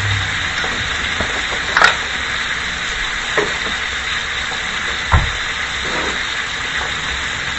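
Rib-eye steak frying in a hot skillet: a steady sizzle, with a few sharp pops or knocks about two, three and a half and five seconds in.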